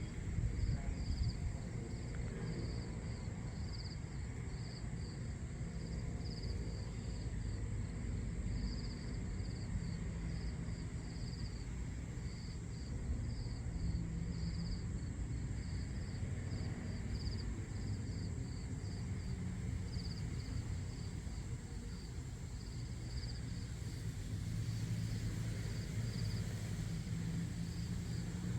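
Insects chirping in a steady pulsing rhythm, about two chirps a second, with a thin steady high whine above them, over a steady low rumble.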